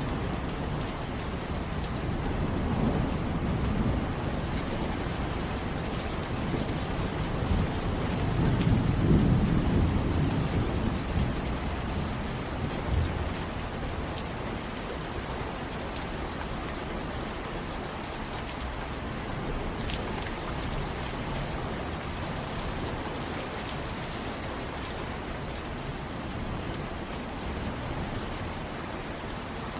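Steady rain falling on a surface, with scattered drop ticks and a low rumble of thunder that swells and fades about a third of the way in.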